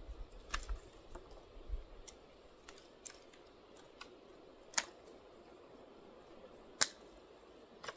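A few separate sharp snaps and clicks of small twigs being handled while a campfire lay is built, the loudest about five and seven seconds in.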